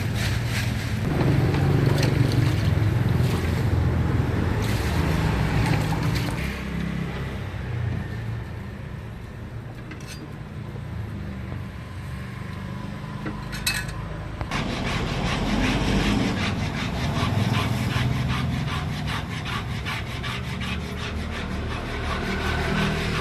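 A knife working on raw fish, with repeated scraping and sawing strokes. The strokes become a rapid, close run of rasping scrapes from about two-thirds of the way in.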